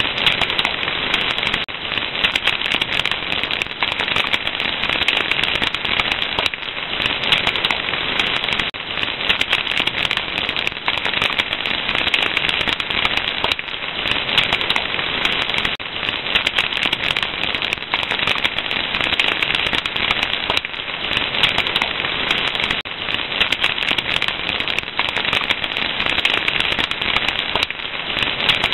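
Fire crackling steadily, with rapid, dense pops and snaps over a continuous hiss.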